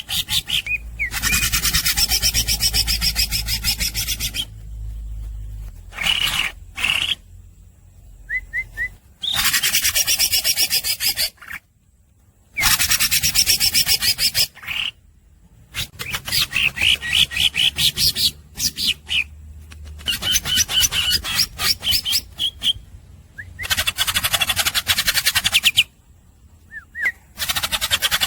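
Green leafbird (cucak ijo) singing in long phrases of very fast repeated high notes, each phrase lasting a few seconds, with short pauses between.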